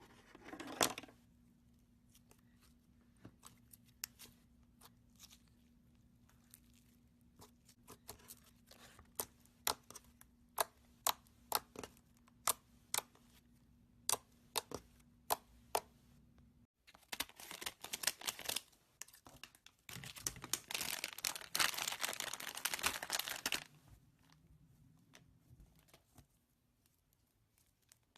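Hands working slime: a long run of sharp separate pops and clicks, then, after an abrupt change about two-thirds of the way in, a few seconds of dense crackling and tearing before it goes quieter.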